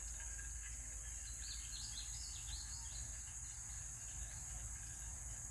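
Outdoor ambience: a songbird chirps a quick run of notes from about one and a half to three seconds in, over a steady high insect drone and a low rumble.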